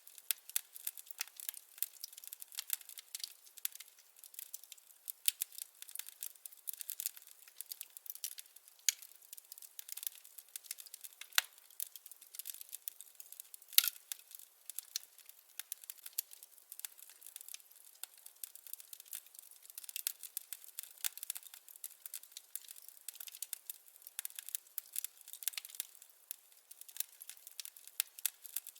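Wood fire crackling, with irregular quick pops and snaps over a faint hiss and one sharper pop about halfway through.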